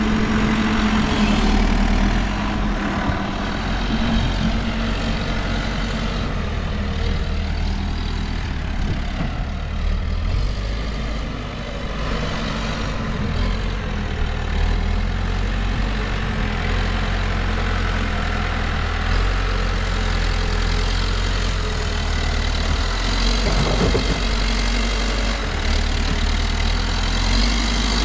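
New Holland backhoe loader's diesel engine running steadily at work, its low engine note shifting a little in level.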